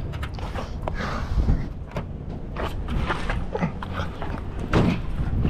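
Scrap being shifted around in a pickup's bed: a string of knocks and clatters over a steady low rumble.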